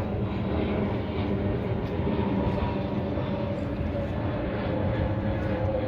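Steady, loud roar of tornado-force wind.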